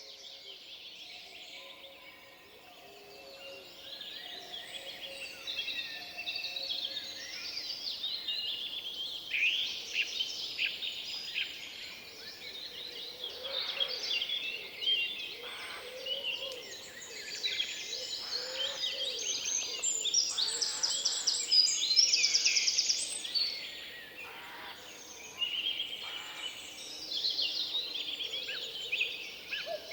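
Forest dawn-chorus-style birdsong: several songbirds singing at once, with overlapping whistled phrases and fast trills, thickening after the first few seconds.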